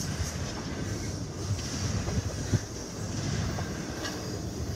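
Intermodal container cars rolling past at close range: a steady rumble of steel wheels on rail, with scattered clicks and one sharp knock about two and a half seconds in.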